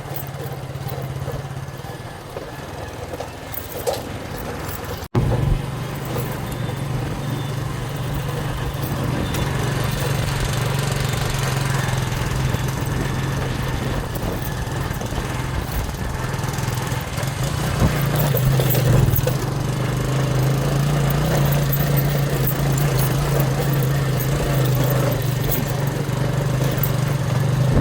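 Motorcycle engine running steadily under way, a low drone with wind and road noise over it. The sound briefly drops out about five seconds in.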